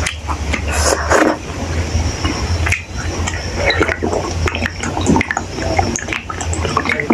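Close-miked wet chewing and mouth sounds of a person eating rice and fried potato by hand, a quick irregular run of small smacks and clicks over a steady low hum.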